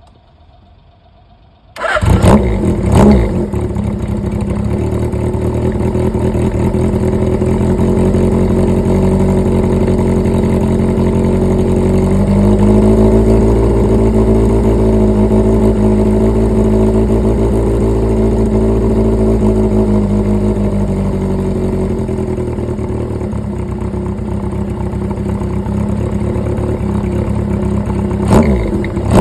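Suzuki GS750 air-cooled inline-four engine starting about two seconds in, catching with a couple of quick bursts, then idling steadily. The idle speed rises a little around the middle and settles back, and there is one short burst near the end.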